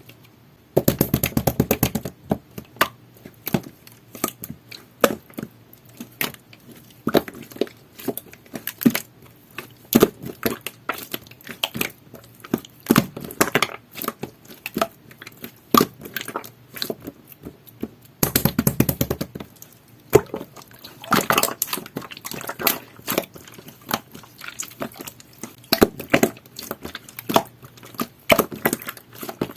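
Jelly-textured slime being squeezed and poked by hand, making a run of crisp clicks and wet crackles, with two longer spells of rapid crackling about a second in and again after eighteen seconds.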